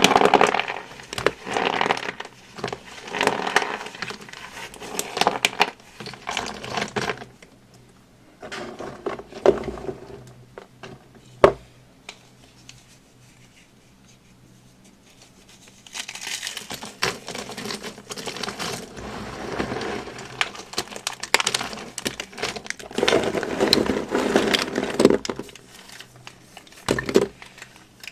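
Dry soap crunching and crumbling in repeated bouts of dense crackling. A single sharp crack comes before a lull of a few seconds around the middle, then the crunching resumes.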